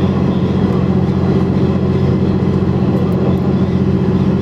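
KiHa 100 diesel railcar's engine running steadily under way, a continuous low drone with a rushing noise over it.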